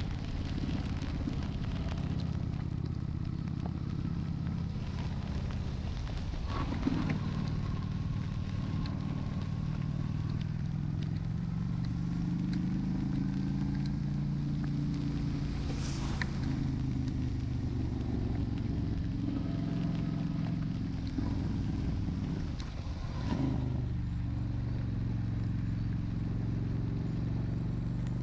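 Honda Shadow 750's V-twin engine running under way, its pitch shifting with the throttle, over a steady hiss of wind and rain spray. Brief louder swishes come through three times.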